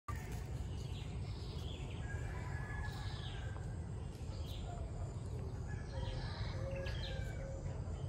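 Small birds chirping, short high calls coming every second or so, over a steady low rumble.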